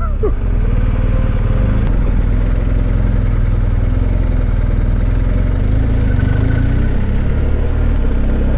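BMW R1250GS boxer-twin engine running steadily while the motorcycle is ridden at an even speed, with constant wind and road noise.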